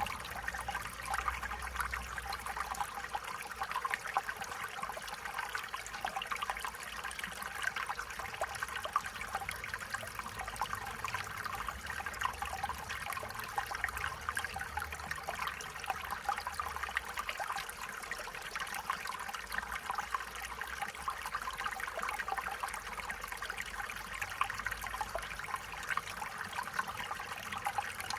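A small stream trickling and babbling over stones, a steady running-water sound with fine splashes and no change throughout.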